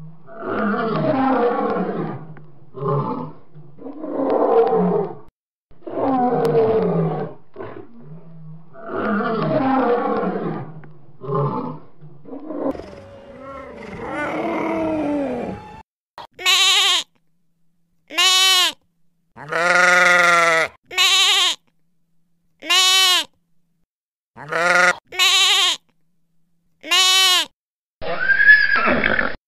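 Lion roaring and grunting in a string of deep, rough calls. About halfway through come eight or so short, clear, high calls from a second animal, each rising and falling in pitch. A horse's whinny begins near the end.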